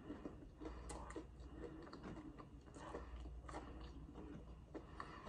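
Close-miked mukbang eating: quiet chewing and biting of food, heard as many small, irregular mouth clicks and smacks.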